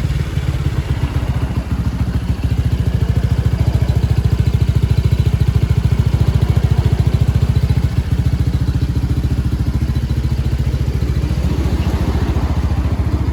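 Honda PCX scooter's single-cylinder engine idling through an aftermarket custom muffler, a quick even exhaust pulse that is a little uneven for the first couple of seconds as the revs settle.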